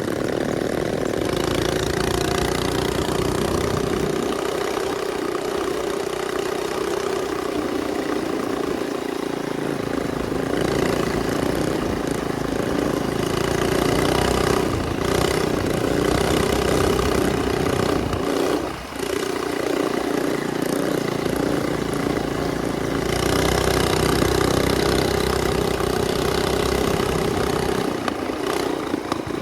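Minibike engine running at a steady speed with an even, unbroken note, with a short dip in loudness about two-thirds of the way through.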